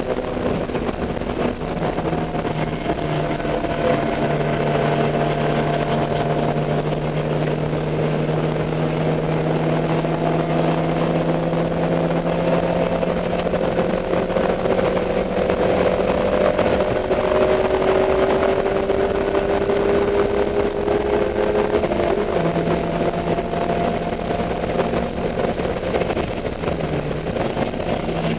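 Dodge Neon race car's four-cylinder engine running continuously at fairly steady revs, heard from inside the car. Its pitch drifts slowly upward through the middle, then drops and settles about three quarters of the way in.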